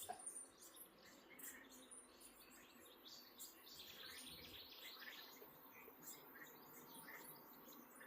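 Faint nature ambience: scattered short bird chirps, with a busier burst of chirping about halfway through, over soft insect-like ticking and hiss.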